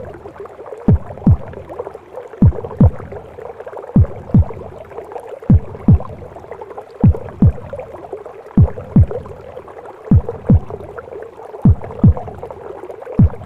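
Womb-sound recording of a mother's heartbeat: slow double thumps (lub-dub), each thump dropping in pitch, a pair about every one and a half seconds, over a steady muffled whooshing of womb noise.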